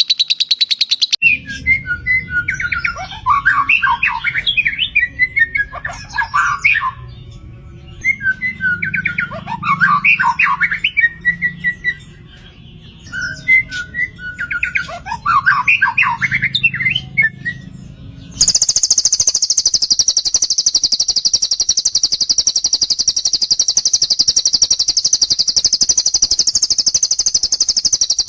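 Recorded cage-bird song from a shama training track built from cililin and lovebird calls: three quick twittering phrases over a low rush of flowing water. About 18 seconds in, the track cuts abruptly to one long, unbroken, very high-pitched trill.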